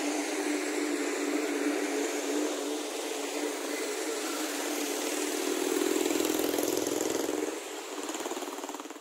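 Passenger train of LHB coaches running away along the track: a steady rail rumble and hiss that swells about five seconds in, with a deeper rumble, then eases.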